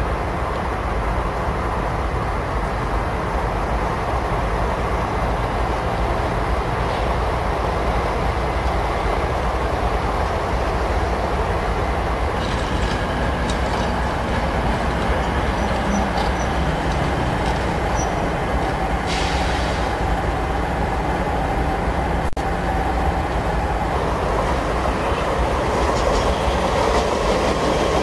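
Train running on the rails: a steady rumble with a few faint high wheel squeals around the middle, getting a little louder near the end.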